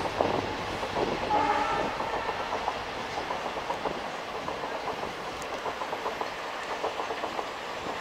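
Passenger train coaches rolling across a concrete viaduct, the wheels rattling and clicking steadily over the rail joints. A short horn note sounds about a second and a half in.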